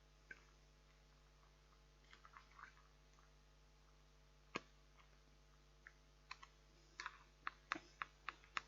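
A utensil clicking and scraping against a compartmented microwave-meal tray as the food is stirred: scattered light clicks, one sharper knock near the middle, then quicker clicks, about three a second, near the end.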